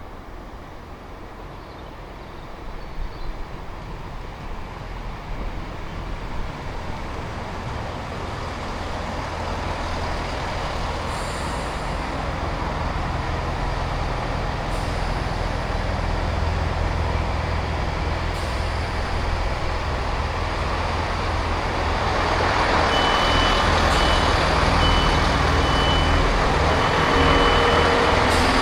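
Diesel passenger train approaching, its low engine drone growing steadily louder. Wheel and rail noise builds over the last few seconds, with a high whine that breaks on and off.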